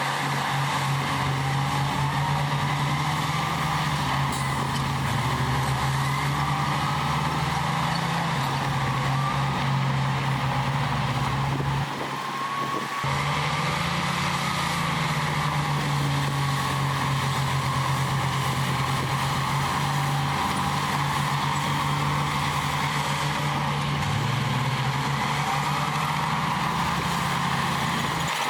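Heavy diesel earthmoving machine running steadily under load, its engine note and a high whine rising and falling slowly. The sound briefly dips about twelve seconds in.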